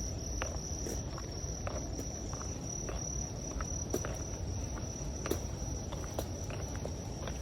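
Insects trilling steadily in one continuous high tone, with scattered light ticks and taps over a low rumble.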